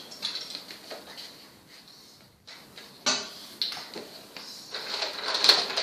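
A sheet of paper being folded and creased by hand: a few bursts of rustling and crinkling, the loudest near the end.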